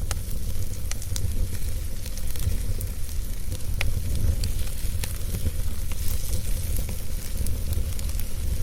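Wood fire in a fireplace crackling, with scattered small pops and clicks over a steady low rumble.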